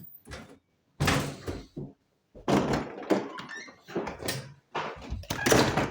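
A run of irregular knocks and thuds, some loud and sudden, roughly one every second.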